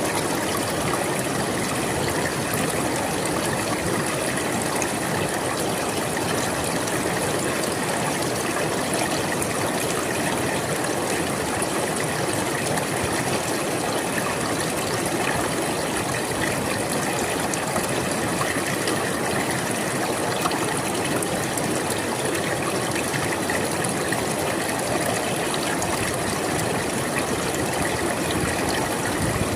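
A river flowing steadily, its water rushing and babbling in an even, unbroken noise.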